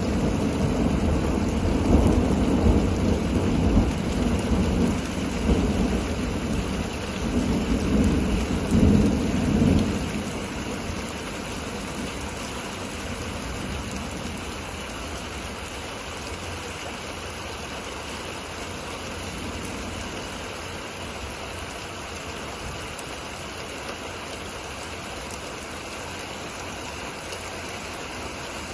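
Thunder rumbling over steady rain. The rolling rumble swells several times during the first ten seconds, then dies away, leaving an even hiss of rain.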